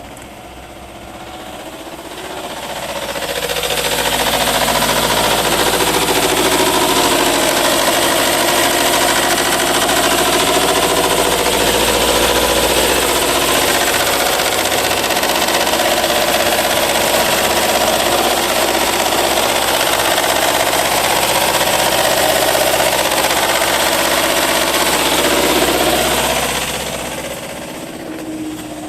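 Subaru Forester's EJ204 flat-four engine running, with a knock from the timing-belt tensioner, a sign the tensioner is failing. The sound grows louder a few seconds in and falls back near the end.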